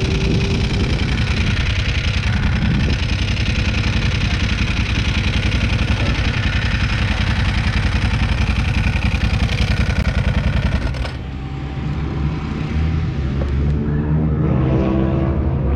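Sport bike engine running at low speed with wind rush on the microphone; about eleven seconds in the wind noise drops away and the engine settles to a quieter idle.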